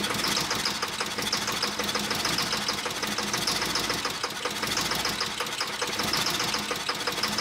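1988 Camaro IROC-Z's 305 V8 running on starting fluid with a steady, rapid clanking knock, which the owner takes for a rod knock from a spun rod bearing.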